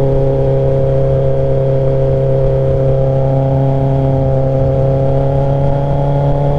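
A 2022 Kawasaki ZX10R's inline-four engine with an SC Project S1 exhaust, running steadily under way at a constant cruise. Its pitch rises slightly in the second half, over a low wind rumble.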